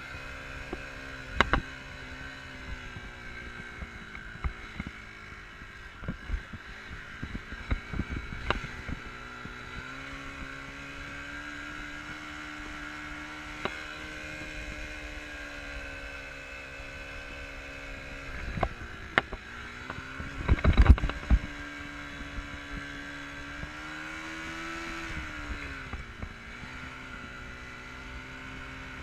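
Enduro motorcycle engine running at steady revs, its pitch easing up and down gently, with scattered knocks and thumps. The loudest cluster of thumps comes about 20 seconds in.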